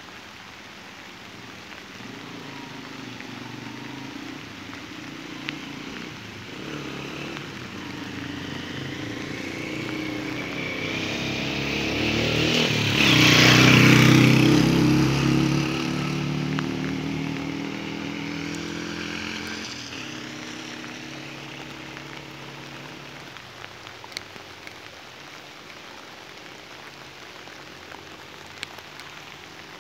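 Steady rain falling, with a motorcycle approaching, passing close about halfway through and fading away; its engine is loudest for a couple of seconds as it goes by.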